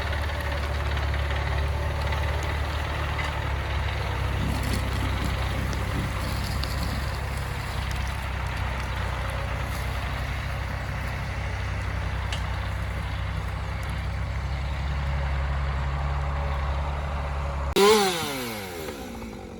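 Heavy vehicle engine running steadily with a low rumble. Near the end there is a sudden loud sound with a falling whine, and the engine rumble stops.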